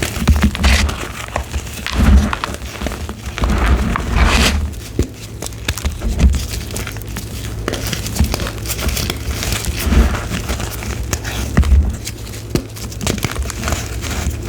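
Crunchy gym chalk being crushed and crumbled close to the microphone: dense, irregular crackling and crunching with repeated low thuds.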